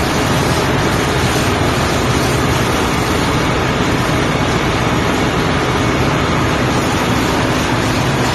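Steady, loud din of machinery running in a ship's engine room, with a constant low hum under a wide noise.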